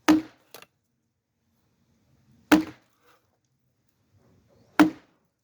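Axe chopping firewood: three heavy blows into wood, about two and a half seconds apart, with a lighter knock just after the first.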